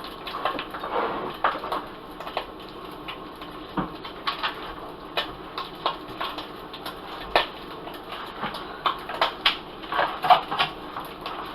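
A cooking utensil clinking and scraping against a frying pan in irregular taps, stirring peppers and onions in hot oil, over a steady frying hiss.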